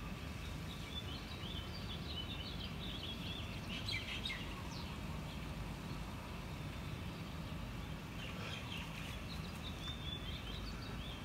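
Small birds chirping and twittering in two spells, the first early and the second near the end, over a steady low outdoor rumble.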